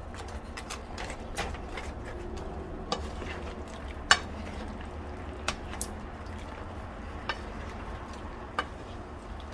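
A utensil stirring chicken in sauce in a frying pan, knocking and scraping against the pan in irregular clicks, the sharpest about four seconds in, over a steady low hum.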